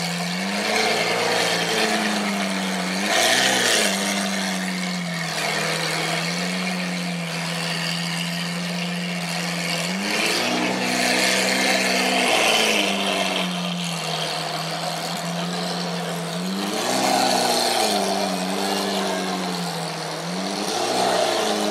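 Lamborghini Aventador LP700-4's 6.5-litre V12 idling through an aftermarket Capristo exhaust. It is blipped several times, each rev rising and dropping back to a steady idle, with one longer rev held in the middle.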